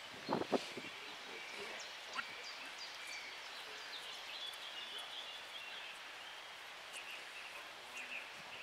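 Small birds chirping and singing in a steady stream of short high calls, with two brief, louder sounds about half a second in.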